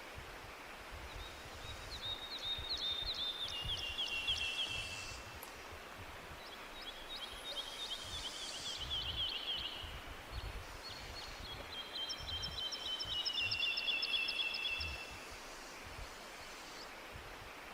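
A songbird singing three times, each song a fast trill of high notes that steps down in pitch and lasts about four seconds. A steady hiss of forest ambience runs underneath.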